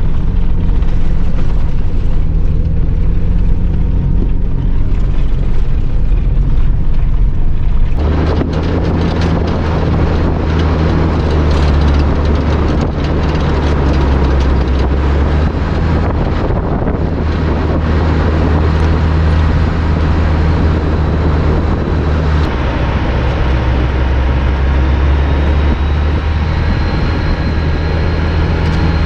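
4x4 vehicle driving on a gravel road: a steady low engine drone with tyre and road noise. About eight seconds in, a louder rushing noise comes in and stays, over the same drone.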